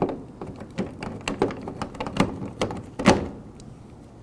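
A new exterior car door handle being worked into its opening in the door skin: a run of light clicks and knocks, the loudest a thunk about three seconds in.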